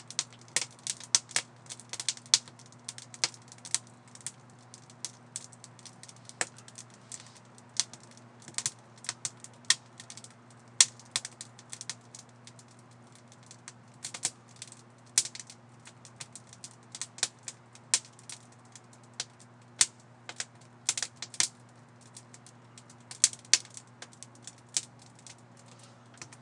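Wood fire crackling: irregular sharp pops and snaps, several a second and varying in loudness, over a steady low hum.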